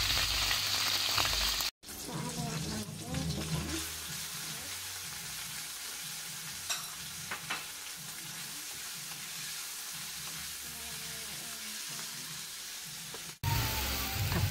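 Chopped onion and garlic sizzling in hot oil in a wok. After a brief break, chicken pieces fry more quietly in the wok, with a couple of light clicks. The sizzling grows louder again near the end.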